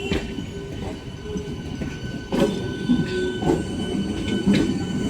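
Electric multiple unit local train rolling slowly past: a low rumble with a steady high whine and a few sharp clacks of wheels over rail joints.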